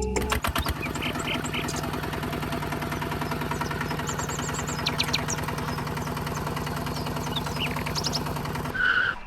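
A small motor running steadily with a fast, even pulse, then stopping near the end, with birds chirping over it.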